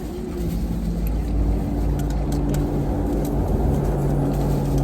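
Car engine running with a steady low hum that steps up a little in pitch about a second and again about two seconds in.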